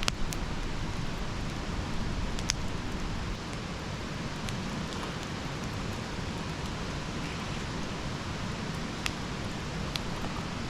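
Campfire burning: a steady hiss and low rumble of the flames, with a few sharp wood crackles and pops scattered through.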